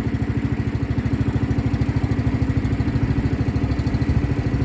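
Motorboat engine running steadily at constant speed, with a rapid, even chugging pulse.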